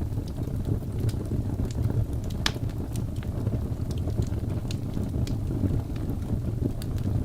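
Wood fire burning in a fireplace: a steady low rumble of flames with scattered crackles and pops, and one sharper crack about two and a half seconds in.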